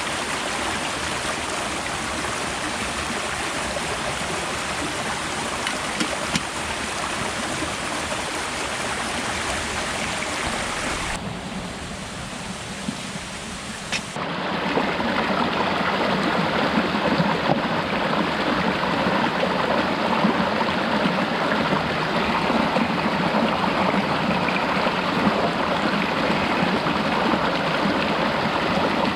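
Steady rushing water noise. It drops quieter for about three seconds roughly eleven seconds in, then returns louder, with less hiss, from about fourteen seconds on.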